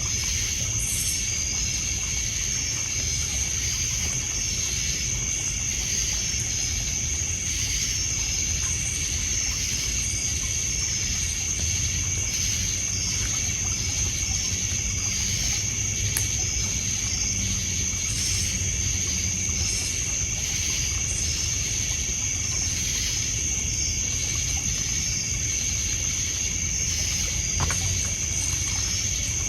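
Night chorus of crickets and other insects: a steady high trill over rows of even, repeating chirps. Under it, water laps on a pebble shore with a low rumble, and a wood fire gives a sharp crackle now and then, once in the middle and once near the end.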